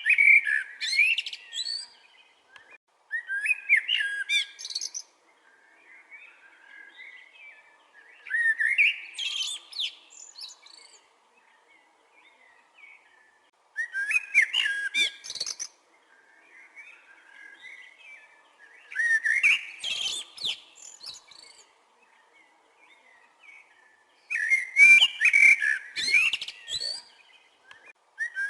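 Chopi blackbird (pássaro-preto) singing: six loud phrases of whistled and chattering notes about every five seconds, with softer notes between them.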